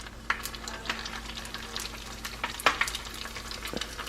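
Egg rolls deep-frying in vegetable oil in a pot on the stovetop: a steady crackling sizzle full of small pops, with a couple of louder pops or clicks about a third of a second in and again near the end.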